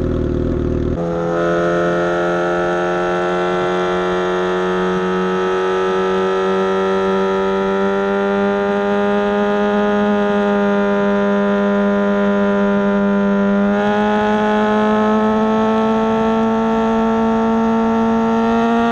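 Suzuki GSX-S750's inline-four engine pulling away about a second in, then running under steady throttle with its note climbing slowly as speed builds.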